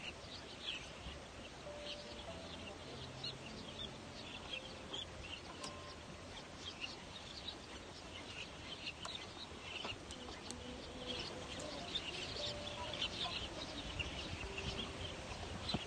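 A chorus of many short, high bird calls and chirps, overlapping continuously and getting a little louder in the second half.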